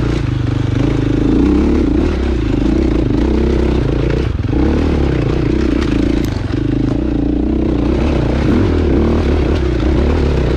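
Dirt bike engine running under steady throttle while riding single track, its pitch wavering a little, with a few brief knocks and rattles from the bike over the trail.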